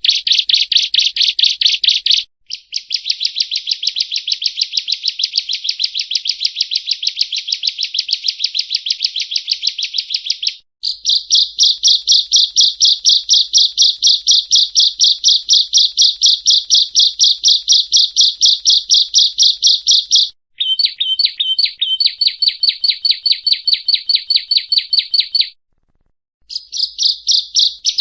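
Prenjak rowo (yellow-bellied prinia) singing long runs of rapid, evenly repeated high chirping notes. The song comes in several bouts with brief breaks, the longest pause lasting about a second near the end.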